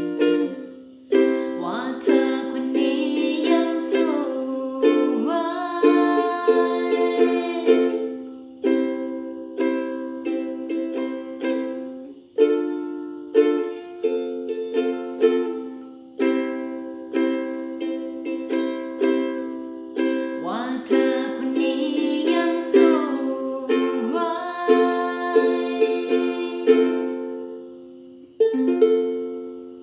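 Ukulele strumming chords in a steady rhythm. A final chord is struck near the end and rings out, fading.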